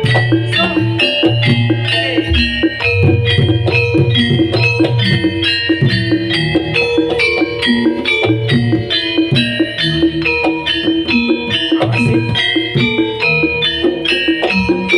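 Live accompaniment music for a Javanese jaranan (kuda lumping) horse dance, played without a break. Quick struck, ringing pitched notes, typical of gamelan metallophones, run over a sustained low bass.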